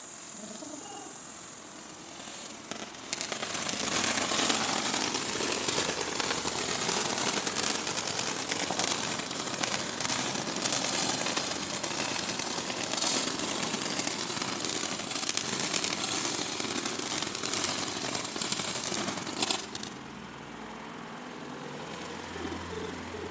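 Firecrackers going off as a rapid, continuous crackle of pops for about sixteen seconds, starting a few seconds in and stopping abruptly near the end.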